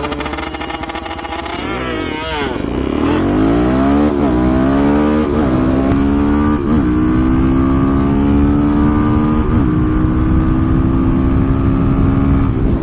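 Suzuki DR-Z400SM supermoto's single-cylinder engine accelerating hard from a race start. It revs up through the gears, the pitch climbing and then dropping at each of about five upshifts.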